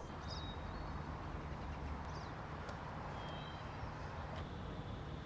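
Outdoor ambience: a steady low rumble with a few short, high bird chirps.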